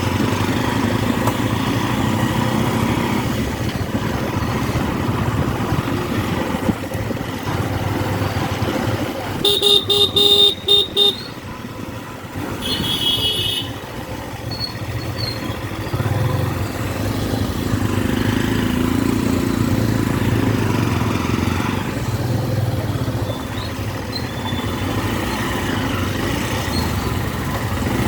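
Motorcycle engine running steadily. A vehicle horn toots several short times about ten seconds in, and a higher-pitched horn sounds a couple of seconds later.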